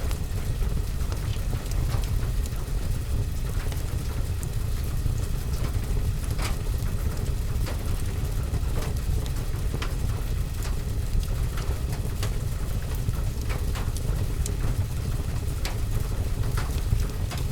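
Fireplace-and-rain ambience: rain falling on a roof and window over a steady low rumble, with scattered sharp crackles and pops from the fire.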